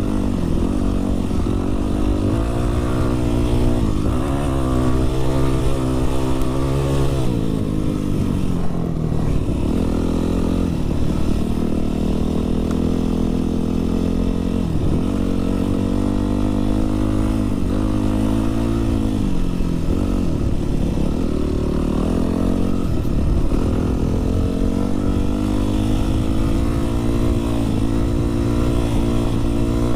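Dirt bike engine running under way, its engine speed climbing and dropping several times as it is ridden.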